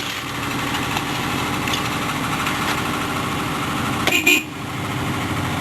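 1998 Subaru Forester's flat-four engine idling steadily just after a cold start in winter. About four seconds in, a single short, high tone cuts in briefly.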